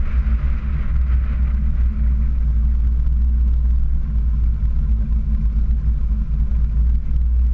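Car engine running at low speed with a steady low rumble as the car rolls slowly, with no revving.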